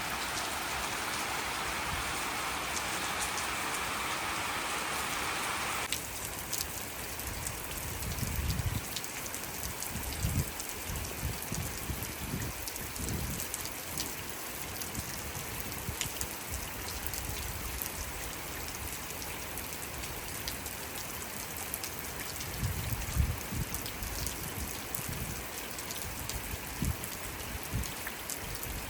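Rain falling: a dense, steady hiss for about six seconds, then an abrupt change to a lighter, spattering rain with individual drops ticking. Low rumbles come and go now and then.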